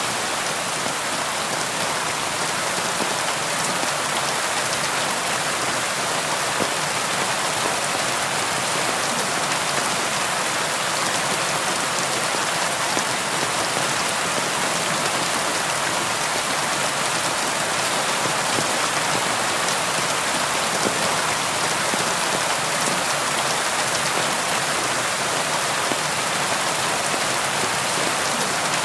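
Steady rain, an even hiss with a fine patter of drops.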